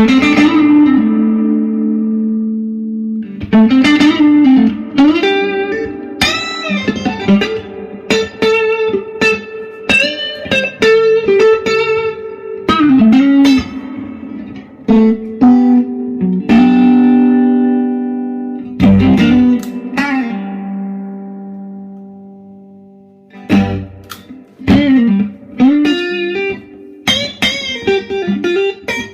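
Electric guitar played through a Fender Deluxe Reverb amplifier: a run of picked single notes and chords, several notes bent up in pitch, some left to ring out.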